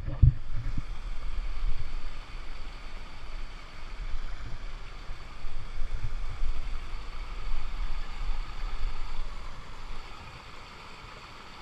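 Steady rush of waterfall water, with a low, uneven rumble that eases off near the end.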